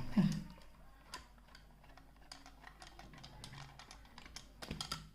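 Faint, irregular small clicks and ticks of long screws being unscrewed from a diaphragm air pump's housing and handled, with a run of louder clicks near the end.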